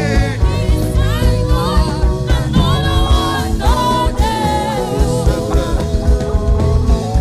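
Live gospel worship band playing a steady beat under sustained chords, with a melody line that slides up and down over it.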